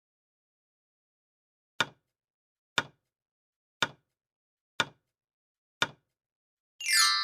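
Quiz countdown timer sound effect: five short knock-like ticks, one a second, then a bright ringing chime near the end.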